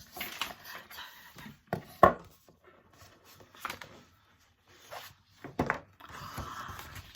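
Paper and cardboard album contents being handled: scattered taps and knocks, the loudest about two seconds in, and a stretch of papery rustling near the end.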